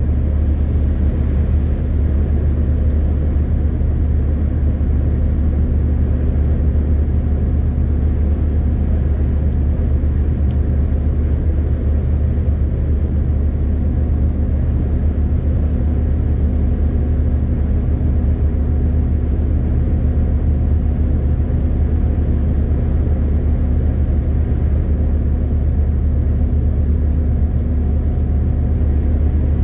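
MAN TGX 18.520 truck's straight-six diesel engine droning at a steady speed, with tyre and road noise, as the truck cruises.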